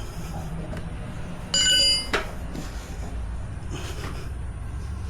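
A metal tool strikes metal and rings loudly for about half a second, about a second and a half in, followed by a sharp knock. A steady low hum runs underneath.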